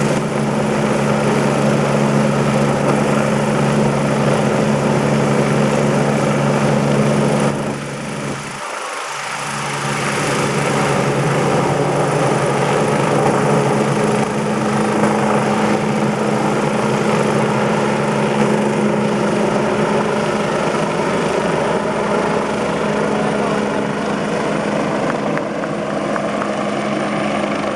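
Rescue helicopter running close by: a loud, steady engine and rotor drone that dips briefly about eight seconds in, then carries on.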